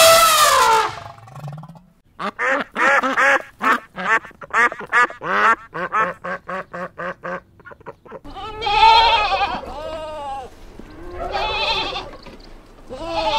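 An Asian elephant's short trumpeting call, falling in pitch, then white domestic ducks quacking in a quick run of short calls for about five seconds, then goats bleating three times with long wavering calls.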